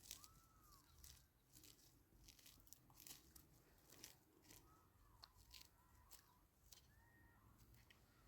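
Near silence: faint scattered crackles and clicks, with a few faint high chirps.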